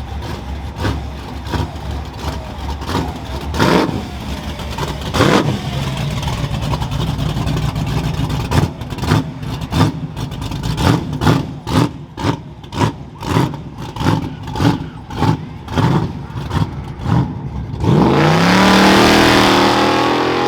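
A built Jeep's engine runs with a string of sharp pulses about twice a second, then revs hard with a rising pitch as it accelerates away near the end.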